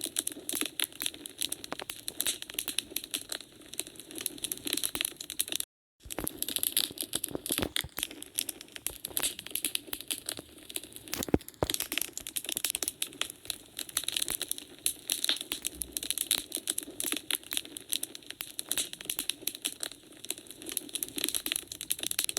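Wood fire crackling in a fireplace: a dense, irregular run of small pops and snaps, with a sharper crack about eleven seconds in. The sound drops out to silence for a split second about six seconds in.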